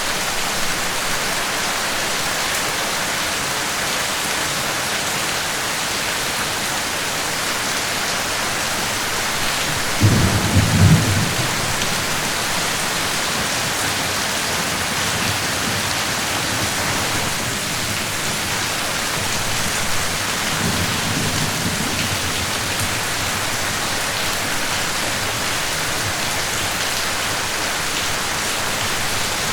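Steady rain falling, with a short low rumble of thunder about ten seconds in, the loudest sound, and a fainter rumble around twenty seconds in.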